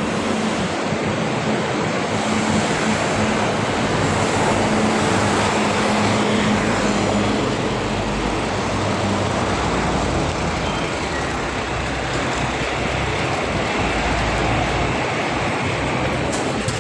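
Steady city street traffic: a continuous wash of road noise with the low hum of engines from passing cars and buses.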